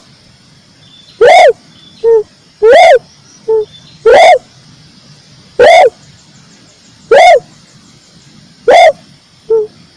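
Red turtle dove (red collared dove) calling: six loud, short arched coos about every one and a half seconds, with three shorter, quieter notes between them.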